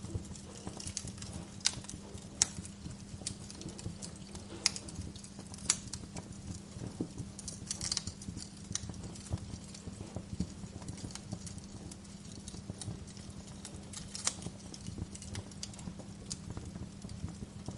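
Wood fire crackling: irregular sharp pops and snaps at uneven intervals over a steady low hum.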